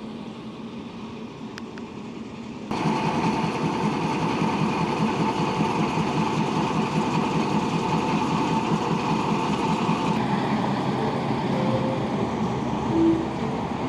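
Steady mechanical running noise of a train, with a faint hum. It jumps much louder about three seconds in and stays steady after that.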